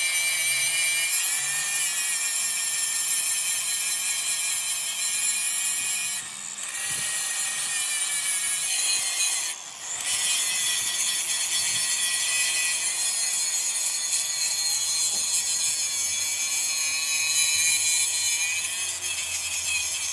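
Angle grinder grinding steel: a steady high whine over harsh hiss, with two short breaks where the disc comes off the metal, about six and nine and a half seconds in.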